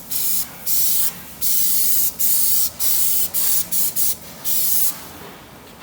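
Paint spray hissing in about eight short bursts of half a second or so, stopping about five seconds in.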